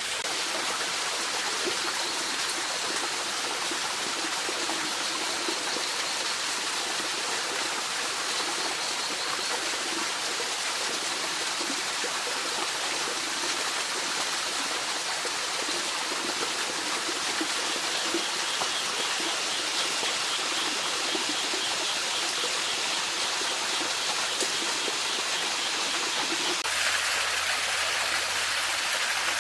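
Mountain stream running over rocks, a steady rush of water. The sound changes abruptly near the end.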